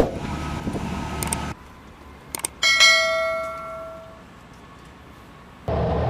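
A steady rumble cuts off. After two faint clicks, a single bell-like metallic strike rings out and fades over about a second and a half. The steady rumble comes back near the end.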